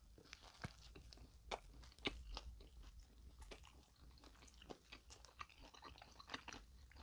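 Faint close-miked chewing of crisp-crusted fried bread with a moist filling, with soft crunches and wet mouth clicks scattered throughout.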